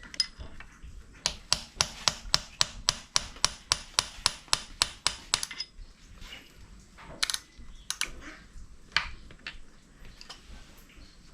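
Sharp metallic clicks from hand tools working on a diesel engine being taken apart: a run of evenly spaced clicks, about four a second for some four seconds, then a few scattered clicks.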